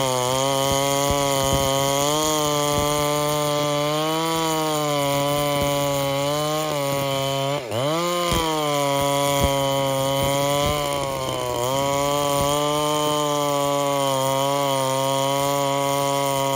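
Large two-stroke chainsaw cutting through a big log at full throttle, its engine note sagging and recovering in waves as the bar is leaned into the wood. About halfway through, the engine speed dips sharply and climbs straight back.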